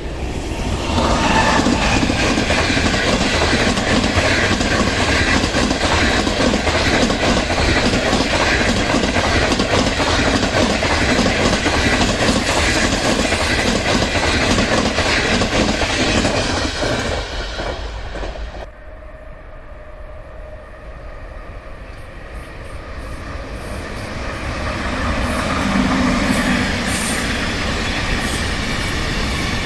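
A train passing close by, its wheels clattering over the rails; the sound cuts off suddenly about two-thirds of the way in. Another train is heard approaching near the end, with sharp clicks.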